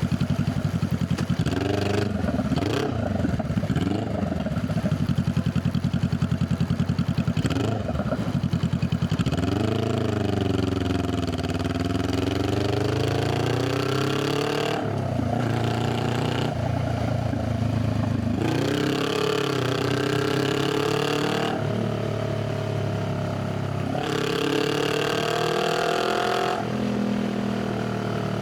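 Honda Rebel 500's parallel-twin exhaust, first running at low revs with a few short throttle blips, then from about nine seconds in rising and falling in pitch several times as the bike accelerates and shifts gears.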